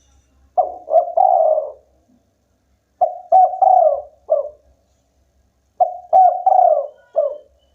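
Spotted dove cooing: three phrases of several low coos each, a couple of seconds apart.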